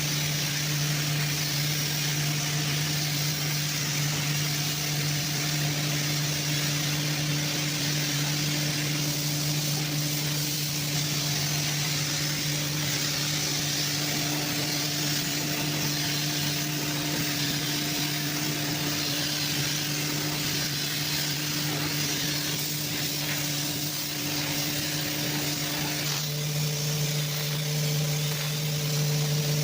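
A machine runs steadily with a low hum and a constant hiss. Near the end one of its tones drops out and a higher tone takes over.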